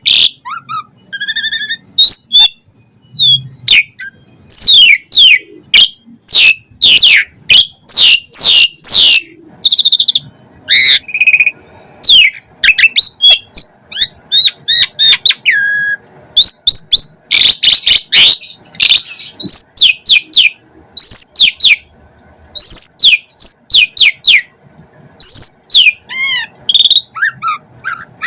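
Asian pied starling (jalak suren) singing a long, loud, varied song: rapid runs of sharp downward-sweeping whistles, wavering and rising whistles, trills and buzzy notes, with short pauses between phrases. The song is full of varied fill-in phrases.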